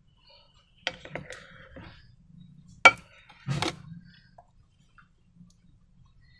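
A handful of sharp clicks and knocks from hard objects being handled while making slime: a small cluster about a second in, the loudest single click just before the middle, and a short double knock soon after.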